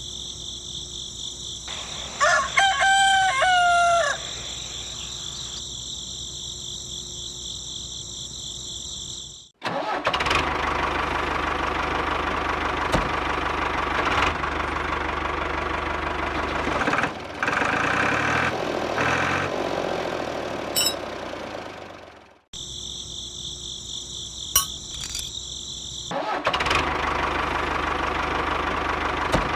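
A rooster crows once over a steady high-pitched drone. About ten seconds in, a small engine starts running and runs for about thirteen seconds before fading out. After a brief return of the drone, the engine starts again near the end.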